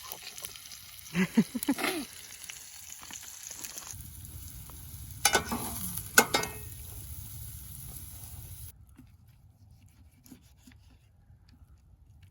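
Food frying in butter in a pan over a campfire, a steady sizzle, with a utensil scraping and knocking against the pan twice. The sizzle cuts off suddenly about two thirds of the way in, leaving only faint clicks.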